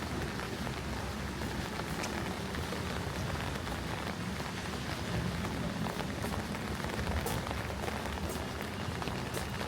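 Steady rain falling, an even hiss with occasional sharper ticks of single drops striking close by.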